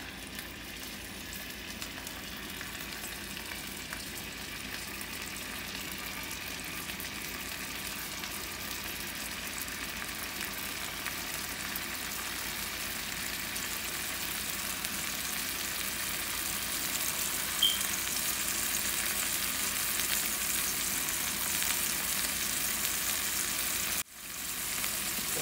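Seasoned chicken breast pieces frying in hot oil in a pan: a steady sizzle that slowly grows louder and cuts out for a moment near the end.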